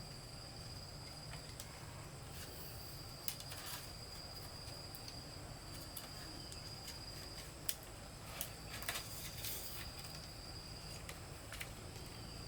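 Insects chirring in a steady high-pitched drone, with a few sharp clicks scattered through, the loudest about three seconds in and just under eight seconds in.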